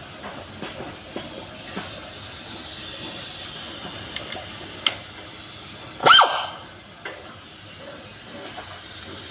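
A dog barks once, sharply, about six seconds in, over a steady background hiss with a few light clicks.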